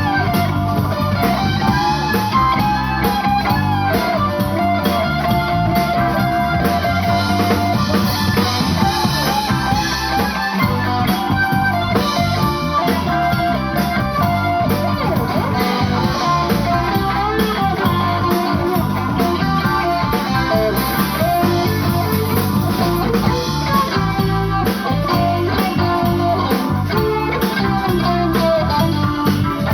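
A live blues-rock band playing an instrumental passage: an electric guitar plays a bending lead line over drums and the rest of the band.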